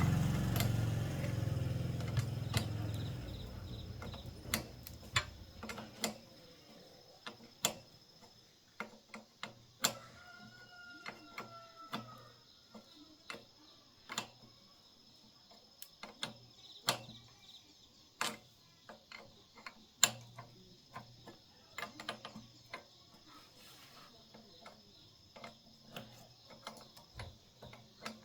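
Hand tools working on metal: irregular sharp clicks and light knocks, roughly one every second or so. A low rumble at the start dies away over about three seconds. A rooster crows faintly about ten seconds in.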